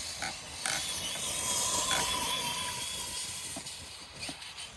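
Radio-controlled monster truck's electric motor whining, with a thin wavering tone over a steady high hiss and a few short clicks.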